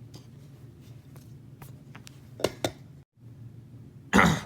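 Light clicks and taps of small objects being handled over a faint room hum, with two sharper clicks about two and a half seconds in. A loud voice breaks in near the end.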